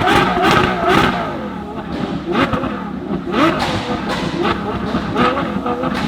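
A tuned sports car's engine is held at high revs, then eases off. It is then blipped several times in short rising revs, with sharp cracks from the exhaust.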